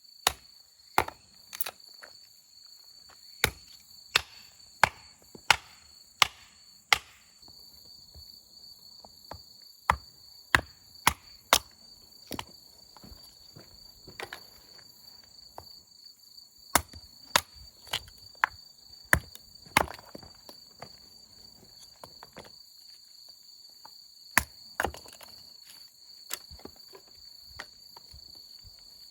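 An axe striking and splitting firewood: sharp single blows at irregular intervals, in several runs of quick strokes. Insects trill steadily underneath.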